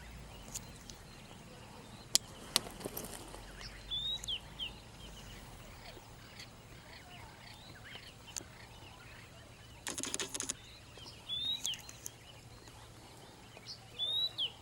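Wild birds calling: a short, sharp call repeats several times over a background of faint chirps. Two clicks a little after two seconds in and a brief rustle about ten seconds in.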